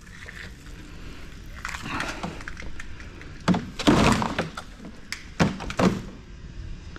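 Thick cables with large connector ends being pulled and handled, rustling and then knocking against the equipment in several sharp thunks, the loudest about four seconds in.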